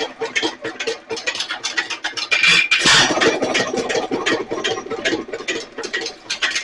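Nelson Little Jumbo 1½ HP hit-and-miss engine running, with a rapid mechanical clatter from its moving parts and one louder pop about three seconds in.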